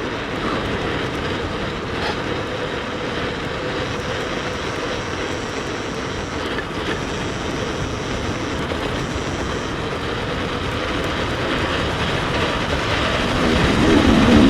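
Steady rumble and wind noise of an electric mountain bike riding over a rough trail, with a faint high whine coming and going in the middle. It grows louder near the end.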